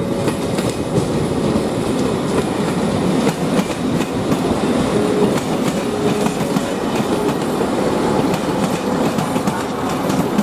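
A short rake of passenger coaches with a diesel shunting locomotive rolls past close by. Its wheels clatter steadily over the rail joints and points.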